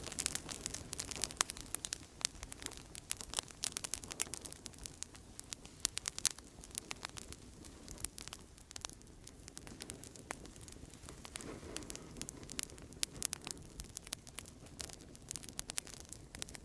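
Outdoor campfire crackling steadily, with frequent irregular sharp pops and snaps of burning wood over a soft, steady rush of flame.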